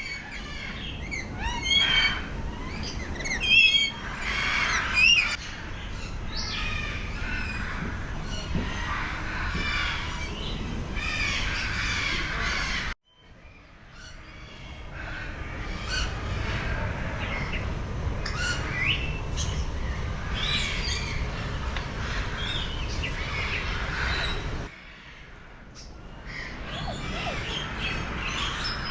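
Many birds calling at once, a dense mix of short chirps and harsher calls, with several loud calls in the first five seconds. The sound breaks off suddenly twice, about 13 and 25 seconds in, and picks up again.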